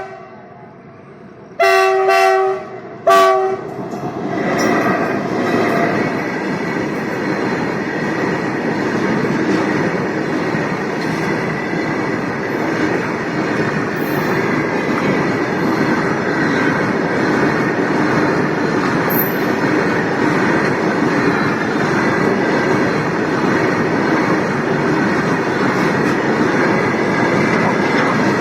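Indian Railways WDG4G diesel locomotive horn sounding twice, a blast of about a second and then a short toot. It is followed by the steady rumble of a goods train rolling past behind several diesel locomotives, with wheel clatter on the rails.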